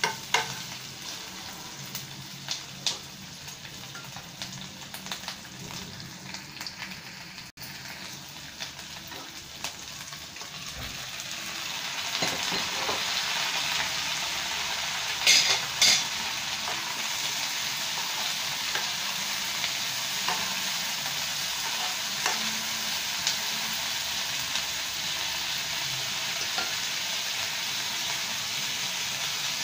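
Chicken, ginger, garlic and green chillies sizzling in oil in a non-stick wok, stirred with a metal spoon that clicks and scrapes against the pan. About twelve seconds in the sizzle grows louder and steadier, with a few sharp clicks soon after, once boiled broccoli and carrots are in the pan.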